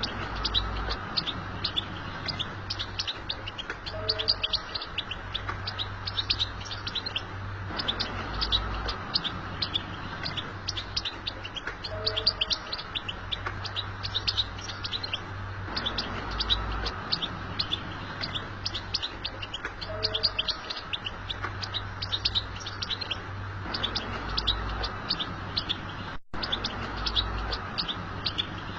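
European goldfinch twittering song: a continuous, rapid run of high chirps and trills over a steady low hum, with a brief cut-out near the end.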